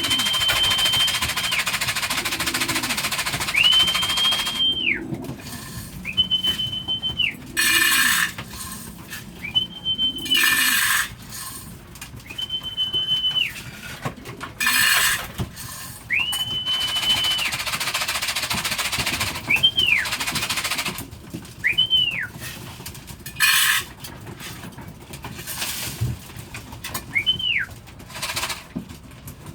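A person whistling on one high pitch to call young racing pigeons down to the trap: about nine whistles, most held for a second or so and a few short, with brief bursts of noise between them.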